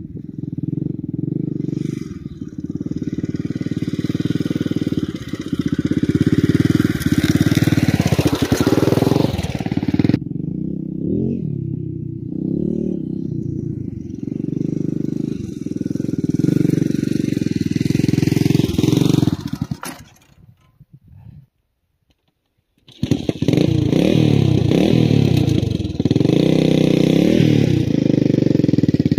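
Honda XR500 dirt bike's single-cylinder four-stroke engine running and revving up and down repeatedly. The sound cuts out for about two seconds about twenty seconds in, then the engine is heard again.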